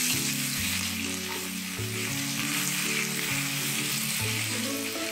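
Ginger-garlic paste, cumin seeds and chopped green chillies frying in hot ghee in a kadhai with a steady sizzle, stirred with a wooden spatula: the tadka stage of cooking dal.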